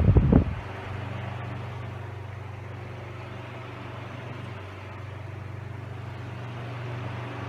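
1954 Signal Cool Spot Model 1249 12-inch oscillating table fan running steadily on high speed: the low, even hum of its two-speed, four-pole shaded-pole motor under the rush of air from the blades.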